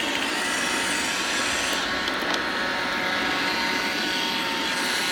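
iRobot Roomba robot vacuum running a cleaning cycle: a steady motor whir and brush noise with a faint whine, even throughout.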